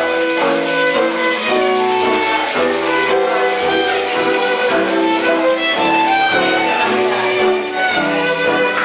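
Live band music with a violin playing a quick melody of short notes over the band's accompaniment.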